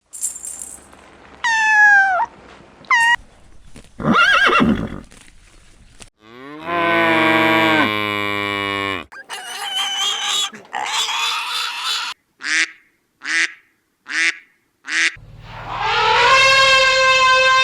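A series of different animal calls, one after another with short gaps between them. There are short cries that fall in pitch, long drawn-out low calls, and a run of four short calls in a row.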